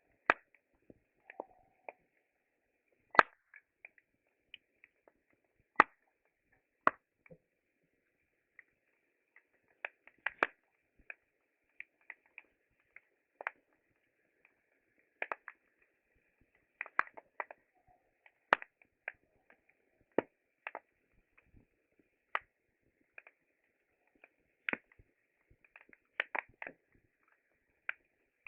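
Campfire wood crackling: irregular sharp pops and snaps, a handful of loud ones among many faint ones, over a faint steady hiss.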